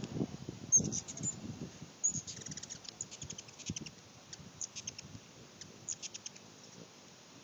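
Hummingbird calling in rapid runs of very high-pitched chips. Wind buffets the microphone with low rumbling gusts that die down after about two seconds.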